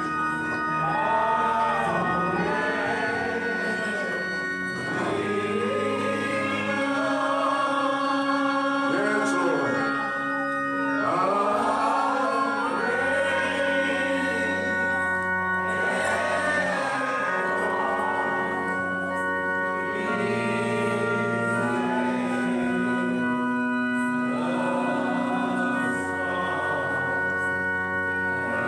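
Church music: voices singing over held organ chords.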